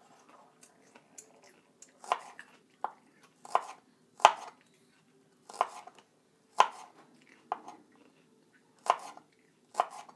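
A kitchen knife chopping scallions on a cutting board: about nine separate, unhurried cuts, each a sharp knock, roughly a second apart.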